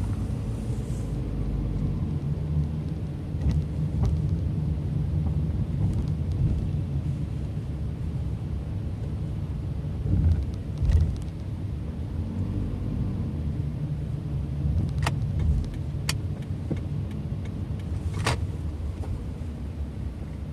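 Car driving slowly, with steady low engine and tyre rumble heard from inside the cabin. Two louder low thumps come about halfway through, and a few sharp clicks follow near the end.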